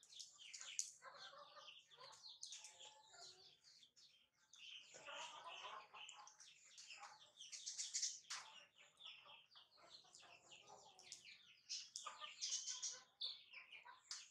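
Faint bird calls, clucks and chirps, coming and going in several short bursts.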